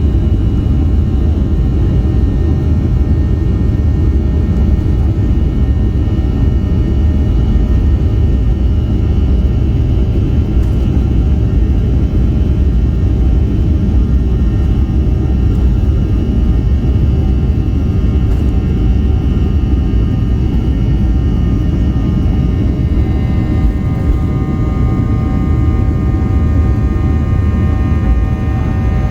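Boeing 737 jet engines heard from inside the passenger cabin: a loud, steady rumble with a layered engine whine on top. Near the end the whine changes pitch as new tones come in.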